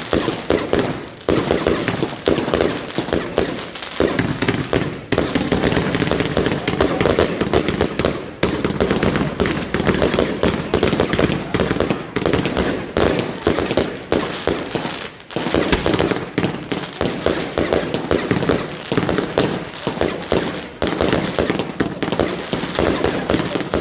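Fireworks going off in a long, dense run of rapid firecracker bangs and crackling, with hardly a break. The loudness dips briefly about four seconds in and again around fifteen seconds, then the barrage carries on.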